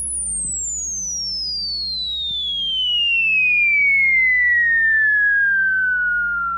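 Falling-bomb whistle sound effect: a single pure electronic whistle gliding steadily down from very high to mid pitch, the fall slowing as it goes.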